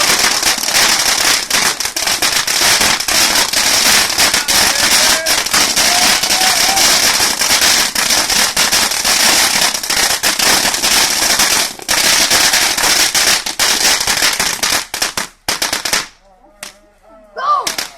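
A long, rapid string of firecrackers going off, dense pops and cracks many times a second, stopping suddenly about fifteen seconds in.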